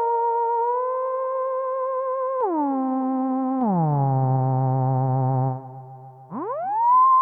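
Access Virus B rack synthesizer playing a single-note lead patch with gliding pitch. A held note slides down twice to a low note, which dies away about five and a half seconds in. Near the end a new note swoops up into a bright held tone.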